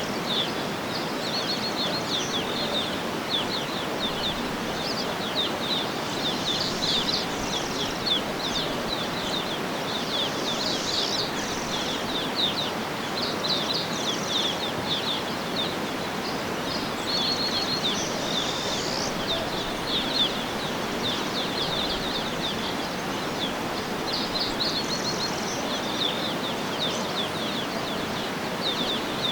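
Outdoor nature ambience: small birds chirping in quick, high, repeated trills throughout, over a steady background hiss.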